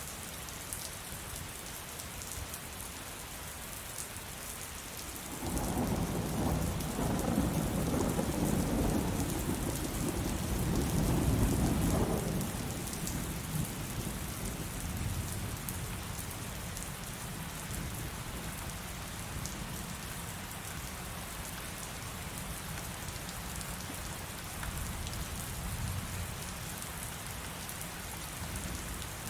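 Steady heavy rain pattering, with a roll of thunder that breaks in suddenly about five seconds in, rumbles for about seven seconds and dies away, leaving the rain.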